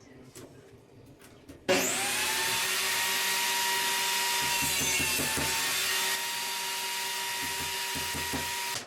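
A small electric motor-driven machine starts up about two seconds in and runs at a steady speed with a constant whine over a hiss, then cuts off abruptly near the end.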